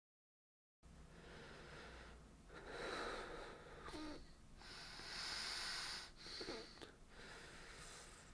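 A man breathing audibly close to the microphone: a few slow breaths a couple of seconds apart, after about a second of silence at the start.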